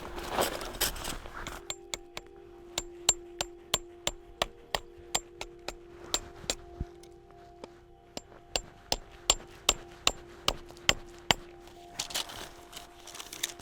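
Tent pegs being hammered into the ground: a run of sharp strikes at about two or three a second, stopping a couple of seconds before the end, over a faint steady tone.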